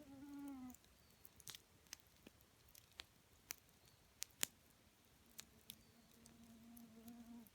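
Wood in a campfire crackling faintly, with sparse sharp pops every half second or so. A short low tone sounds in the first second, and a faint steady tone comes in for the last two seconds.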